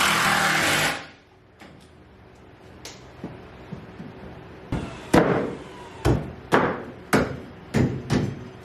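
A power tool runs loudly and stops about a second in. From about five seconds in come about seven sharp knocks, some half a second apart: hammering on 2x4 lumber while building a ladder track.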